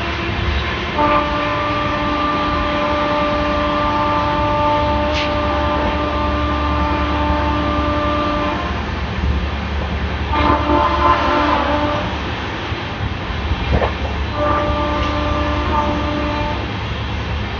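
Moving train running on the track with a steady rumble, while a locomotive horn sounds three times: one long blast of about seven seconds, then two shorter blasts of a second or two each.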